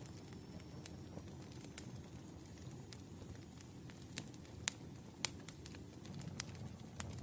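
Wood fire burning: a low steady rumble of flames with sharp, irregular crackles and pops, the loudest pair about four and five seconds in.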